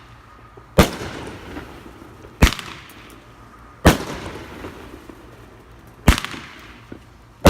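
Consumer fireworks going off: four sharp, loud bangs about one and a half to two seconds apart, each followed by a short fading tail.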